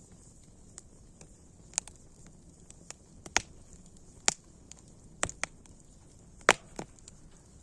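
Wood fire crackling: irregular sharp pops and snaps over a faint hiss, with a few louder cracks, the loudest about six and a half seconds in.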